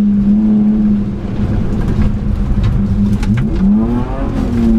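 BMW E36 rally car's engine heard from inside the cabin: held steady at high revs, lifting off about a second in, then revving up again, with rising pitch twice in the second half as it accelerates.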